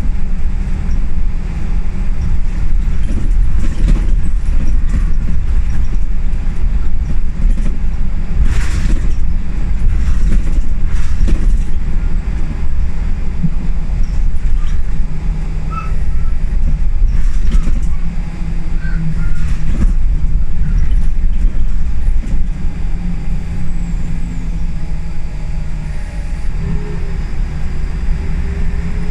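Scania L94UB single-deck bus heard from on board while driving: a steady low engine and road rumble, with a few sharp rattles about a third of the way in.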